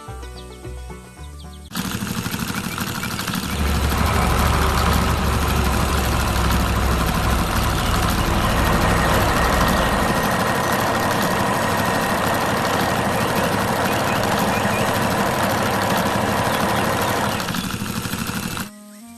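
Brief music, then a loud heavy-vehicle engine sound effect that starts suddenly about two seconds in and runs on, with a deep rumble for several seconds. It cuts off sharply near the end.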